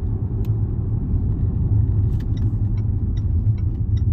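Steady low road and engine rumble inside a moving Range Rover's cabin. About two seconds in, the turn indicator starts ticking evenly, a couple of times a second, as the car prepares to turn right.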